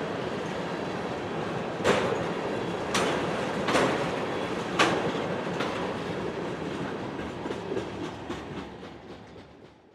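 Train cars rolling past a grade crossing: a steady rumble with five sharp clanks from the wheels between about two and five and a half seconds in, the loudest events. The last car passes, and the sound fades away with lighter clicks.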